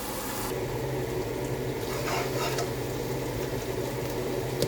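Food sizzling in a frying pan, a steady hiss, with a short click near the end.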